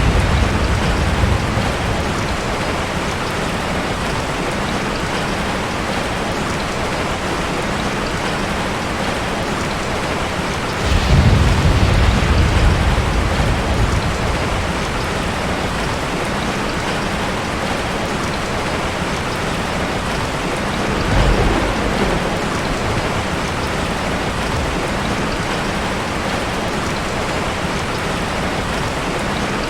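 Heavy rain falling steadily, with thunder rumbling: one roll fading out at the start, a louder one about eleven seconds in lasting a few seconds, and a weaker one about twenty-one seconds in.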